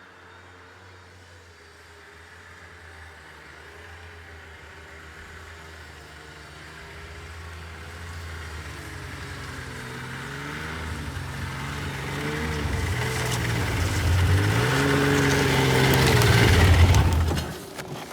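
Snowmobile engine labouring as it approaches, its pitch rising and falling with the throttle and growing steadily louder, while it drags a heavy log on a sled. It stops abruptly near the end.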